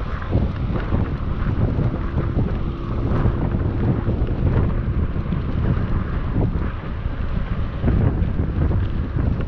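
Wind buffeting an action camera's microphone on a moving bicycle, a steady, gusty rumble. A faint steady tone sits under it for a few seconds in the first half.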